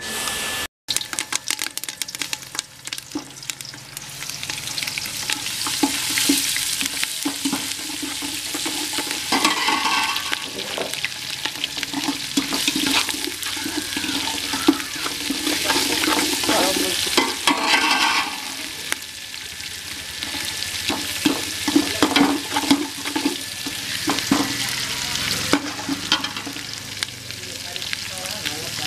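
Green chillies and whole spices frying in hot oil in an aluminium pot, sizzling steadily with many small crackles. A metal ladle stirs and scrapes against the pot.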